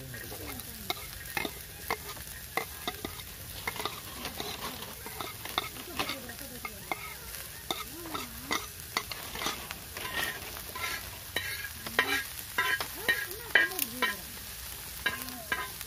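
Chopped onions sizzling in ghee on a blackened flat pan, with a metal spatula scraping and tapping against the pan as they are stirred. The scraping and clicking get busier in the second half.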